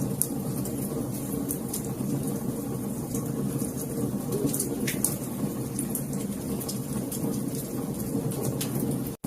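Wood fire crackling, with irregular sharp pops and snaps over a steady low rumble of the flames. The sound drops out for an instant near the end.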